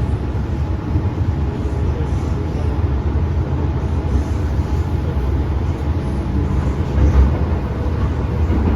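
MTR M-train electric multiple unit running between stations, heard from inside the car: a steady low rumble of wheels and running gear on the track.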